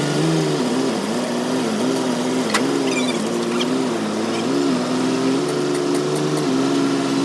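Engine running steadily, its speed wavering up and down a little throughout.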